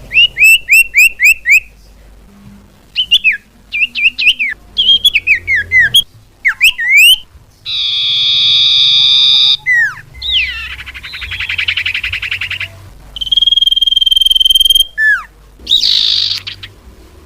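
Bird-lure recording of common iora (sirtu/cipoh) calls: a quick run of sharp chirps, then sweeping whistled notes, a harsh buzzy call, a rattling trill and a long steady whistle, each separated by short gaps.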